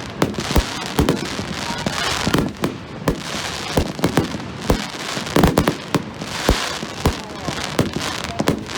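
Fireworks display: an irregular run of sharp bangs, several a second, with crackling between them.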